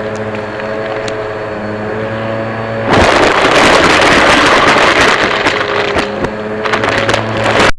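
Vacuum cleaner motor running with a steady hum, then a louder rush of air and suction noise starting about three seconds in as it pulls air and debris through. The sound cuts off abruptly at the very end.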